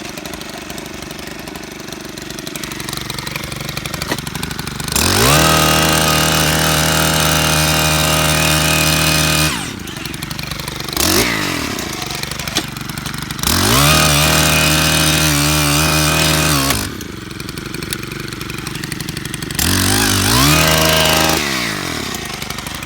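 Petrol-engine post-hole auger boring into soil: the engine idles, then revs up three times, holding a high steady pitch for a few seconds each time (the first two about four seconds long, the last shorter), and drops back to idle in between.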